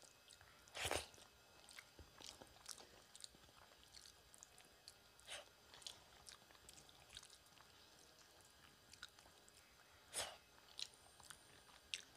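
Quiet eating sounds of a person eating rice and curry by hand: soft chewing with many small clicks. There are two louder brief noises, one about a second in and one near the end.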